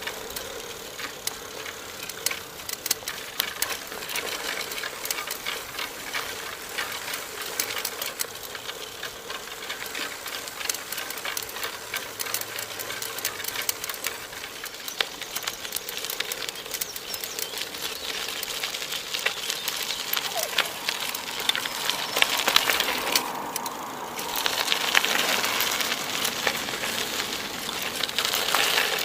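Bicycle rattling and clicking as it is ridden over a rough track, a steady hum under a dense run of small clicks, louder over the last few seconds.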